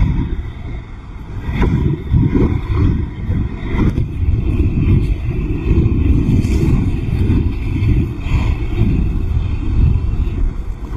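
Heavy storm surf ahead of a hurricane, with strong wind buffeting the microphone: a loud, low rumble that swells and eases without a break.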